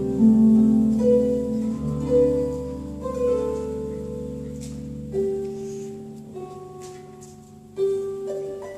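Acoustic-electric harp playing a slow melody: plucked notes ring out over sustained bass notes. The bass fades about five seconds in, leaving sparser single notes.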